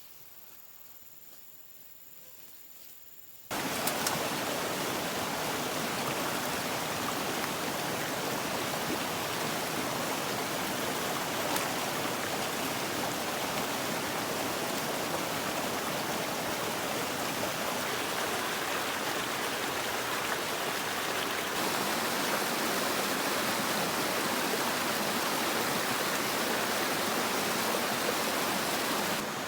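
Steady rush of running water that starts abruptly about three and a half seconds in, after a quiet start, and grows a little louder about two-thirds of the way through.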